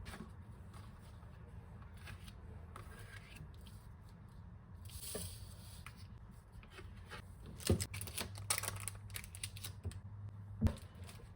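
Packaging and book being handled: rustling and scraping, with a crisp run of rustles and clicks and two sharp knocks in the second half, over a steady low hum.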